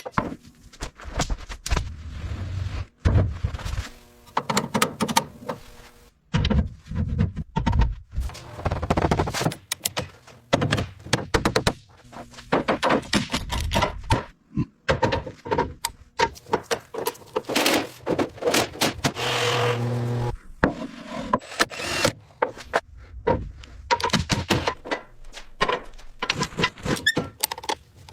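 A quick run of workshop knocks, clunks and thuds from hand work on an old truck, with abrupt starts and stops as if cut together.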